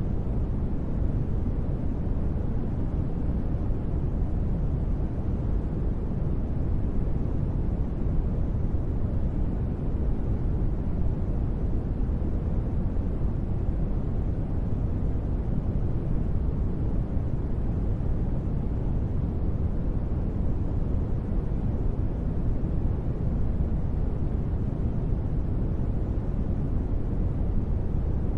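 Steady, unchanging low rumbling noise, deep and muffled with little high hiss. It is a synthesized deep-space ambience noise bed.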